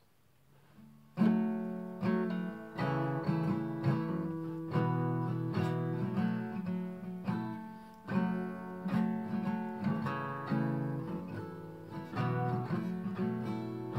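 Acoustic guitar strumming chords as a song's introduction, coming in about a second in.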